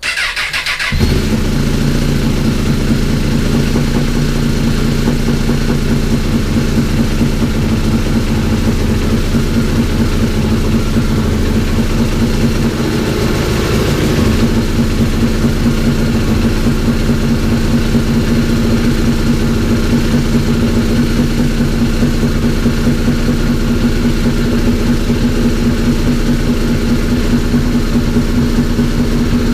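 Honda CBR1000RR's inline-four engine cranking on the starter and catching about a second in, then running steadily at idle: its first start after a gearbox rebuild.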